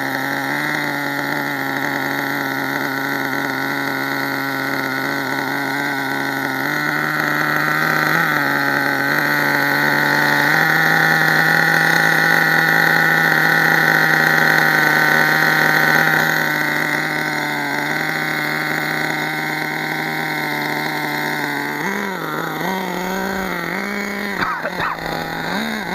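HPI Savage nitro monster truck's small two-stroke glow engine running at a fairly steady speed. Its pitch steps up about six and ten seconds in, drops back about sixteen seconds in, and wavers near the end. The engine is running a little lean.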